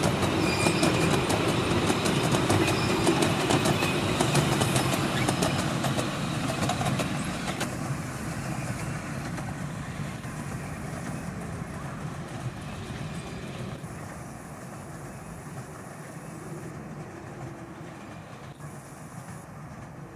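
Miniature steam railway train running on its track, its wheels clicking rapidly over the rail joints. The sound is loudest at first, then fades steadily as the train draws away.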